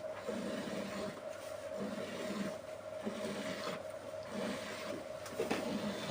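A cow being milked by hand, with streams of milk squirting into a pail in a steady rhythm of roughly one squirt every half second or so.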